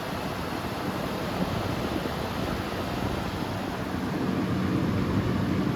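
Vintage Carry Cool 5,000 BTU window air conditioner running in cooling mode, compressor on: a steady rush of fan air from the indoor blower and the outdoor condenser fan, with a steady low hum. The unit is cooling hard, its refrigerant pressure still rising.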